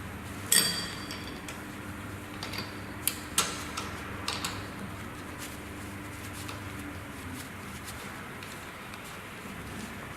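Metal tools and pump parts being picked up and set down: several sharp metallic clanks and clicks, the first about half a second in ringing briefly, with more around three seconds in and near four and a half seconds. A faint steady hum underneath stops about two-thirds of the way through.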